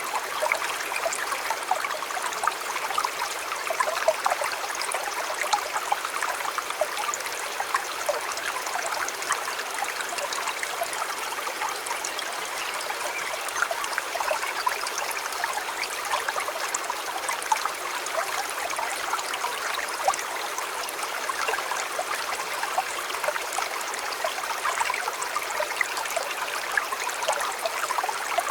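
A river or stream flowing steadily over stones, a continuous babble and splashing of water.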